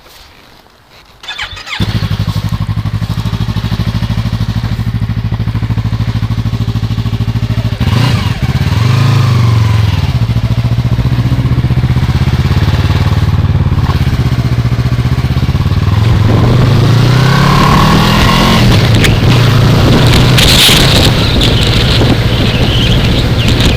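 2015 Yamaha R3's parallel-twin engine starting up about two seconds in and settling to a steady idle, with a short blip of the throttle near the middle and the revs climbing again in the second half.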